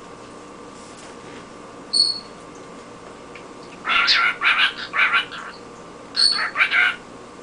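A cockatiel vocalizing: one short high whistle about two seconds in, then two bursts of quick, speech-like chatter, the second opening with another short whistle.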